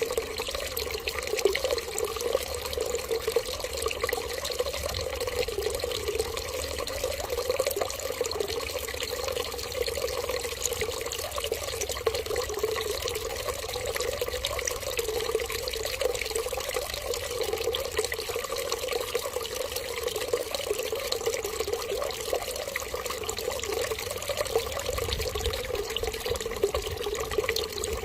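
Steady stream of running water splashing continuously, with no change in flow.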